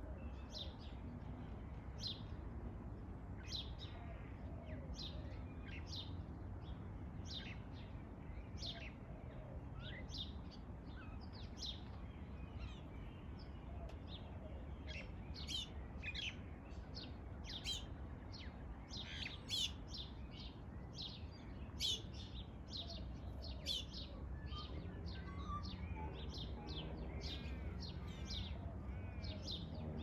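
Birds chirping: a long run of short, high calls, coming thick and fast in the middle, over a low steady background rumble.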